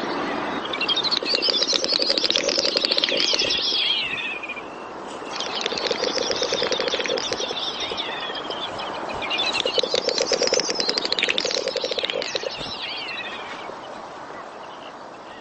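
Common snipe drumming: three bouts of a fast, throbbing tremolo, each a few seconds long, that rise and then fall in pitch. It is the bird's breeding-season display sound, made by its outer tail feathers in a diving flight.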